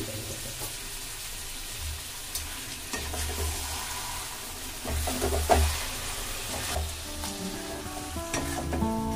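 Marinated chicken sizzling in hot oil in a metal kadai while a steel ladle stirs it, scraping and knocking against the pan. Background music comes in near the end.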